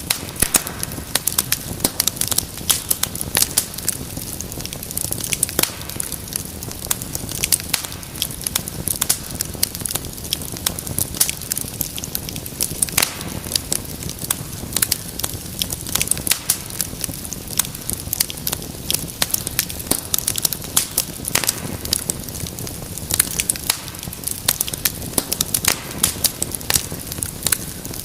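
Wood fire crackling: frequent sharp pops and snaps over a low steady rumble of flames.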